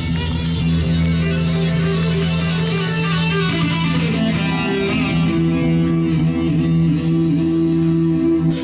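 Live rock band playing: electric guitar chords ringing over a held bass note, with a cymbal coming in near the end.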